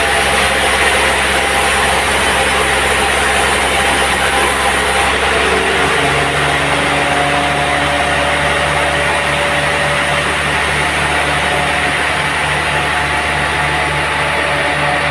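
Sawmill machinery running steadily with an engine-like hum. A high hiss stops about five seconds in, and the hum changes pitch about a second later.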